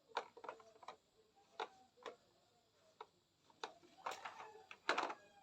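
Plastic toy cars clicking and knocking as they are handled, in scattered light taps with a small cluster about four seconds in.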